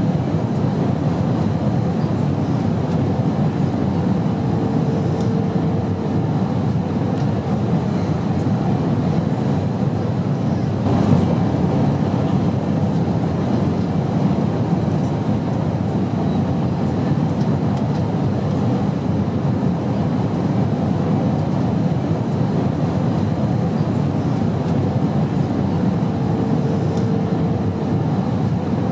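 Airplane noise in flight: a steady low rumble with no change in level. A faint hum comes and goes twice, and there is a single soft knock about eleven seconds in.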